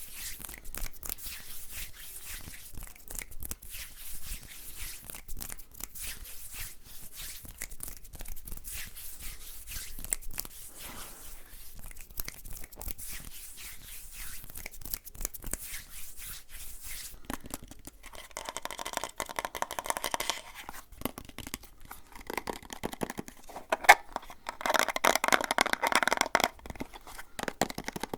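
Close-miked ASMR crackling and crinkling: a dense run of rapid small clicks. It grows louder and fuller in two stretches in the second half, with one sharp louder snap.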